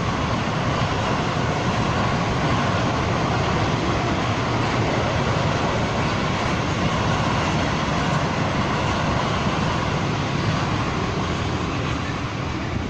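A train passing on the main line, a loud steady rush of wheel and air noise that eases off slightly near the end.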